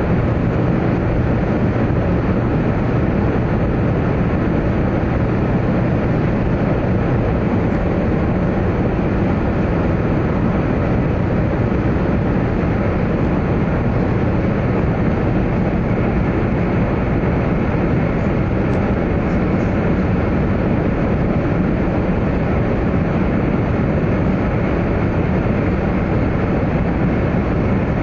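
A 100 Series Shinkansen running at speed through a long tunnel, heard from inside the passenger car. It makes a steady, loud rolling noise of wheels, rails and air that holds even throughout.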